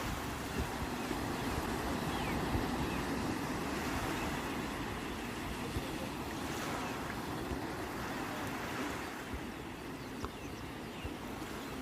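Sea waves washing in: a steady rush of surf that swells and eases, dropping a little near the end.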